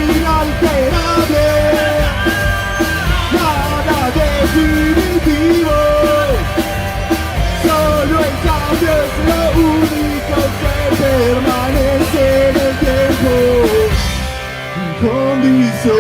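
Punk rock band playing: drums, bass and guitars under a melody line that moves in steps. The drums and bass drop away briefly near the end before the band comes back in.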